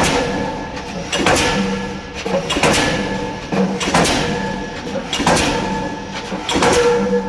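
K25 diesel pile hammer driving a spun concrete pile: heavy blows at an even pace of about one every 1.3 seconds, six in all, each with a ringing decay after it.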